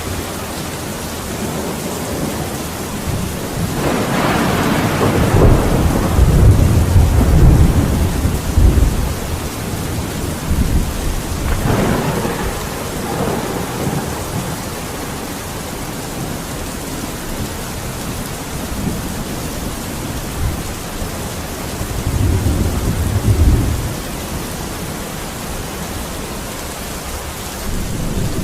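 Steady heavy rain with rolling thunder: a long loud rumble swelling about four seconds in and fading by about nine, a shorter crack-and-rumble around twelve seconds, and a lower rumble near twenty-three seconds.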